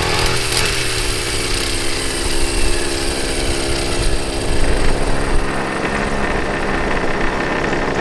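Small lawn mower engine running steadily with an even, buzzing note.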